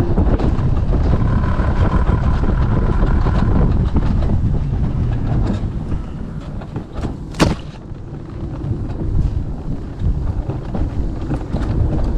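Wind on the microphone over a steady low rumble, with one sharp click a little past the middle.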